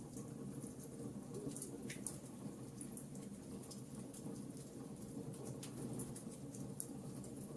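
Wood fire crackling in a fireplace: frequent small, sharp crackles and pops at irregular intervals over a steady low rumble of the flames.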